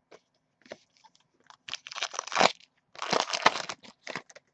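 Trading cards being handled: stiff cards sliding and rustling against each other, with scattered clicks and two longer crackly stretches of rustling.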